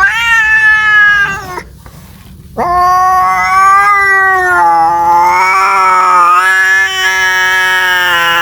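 Domestic cat caterwauling, the yowl of a cat calling for a mate: a short yowl that rises in pitch, then after about a second's pause a long, drawn-out yowl that wavers in pitch and is still going at the end.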